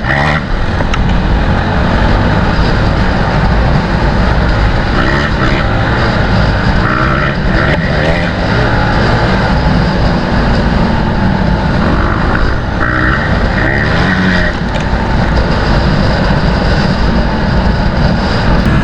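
Dirt bike engine running hard and revving, its pitch rising and falling as the throttle opens and closes.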